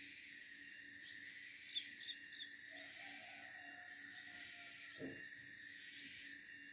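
Siberian blue robin calling: short, sharp rising notes repeated about once a second, over a steady high hum. There is a brief low thump about five seconds in.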